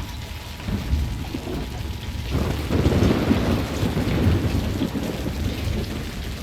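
Thunder over steady rain: a rumble starts suddenly about two seconds in, swells for a couple of seconds and slowly fades.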